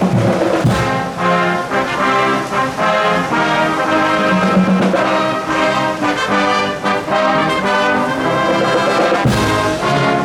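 A marching band's brass section playing loudly in full harmony: trombones and trumpets holding and changing chords over a beat of drum hits.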